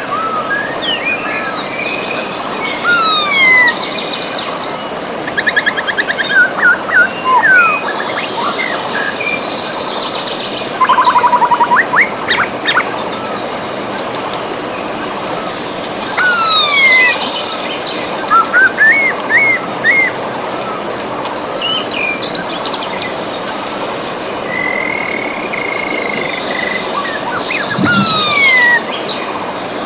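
Steady rush of a river with several birds singing over it: many short falling whistles and quick notes, and a fast buzzy trill about eleven seconds in.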